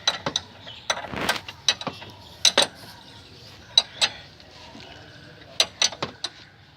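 Irregular metallic clicks and clinks of an 18 mm spanner working on bolts, with a short scraping sound about a second in.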